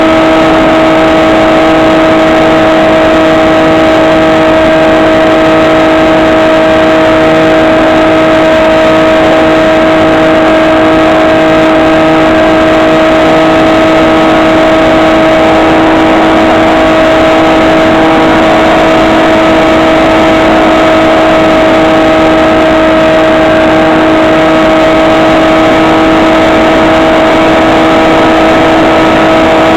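Electric motor and propeller of a HobbyKing SkyEye RC plane running at steady throttle, heard from on board: a loud, constant whine at an unchanging pitch over a rush of noise.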